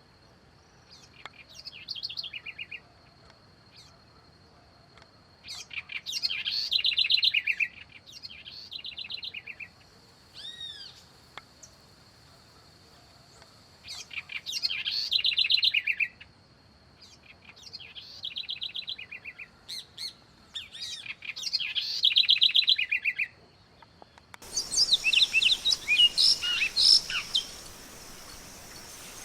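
Songbird singing: a phrase of quick, falling high notes repeated every several seconds, over a faint steady high whine. About 24 seconds in, the recording changes to a different bird's quick chirps over background hiss.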